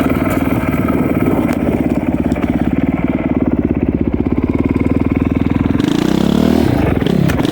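Dirt bike engine running steadily on throttle, its pitch rising near the end and then dropping sharply.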